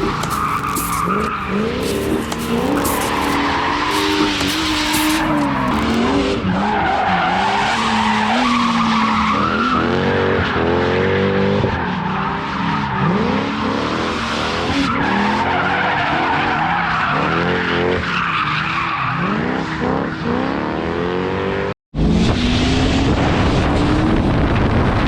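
Drift car engine revving up and down hard, again and again, with tyres squealing through slides. Near the end the sound drops out for a moment and resumes.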